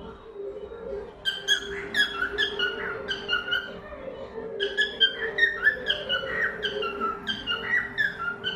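Cockatiel chirping repeatedly, about two short downward-sliding calls a second, starting about a second in with a brief pause midway.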